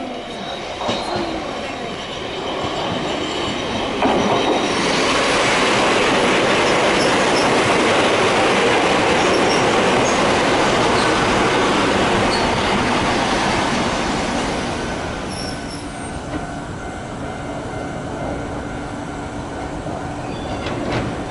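Electric commuter train running along the platform track: its wheel and rail noise swells sharply about four seconds in, stays loud for about ten seconds, then fades away.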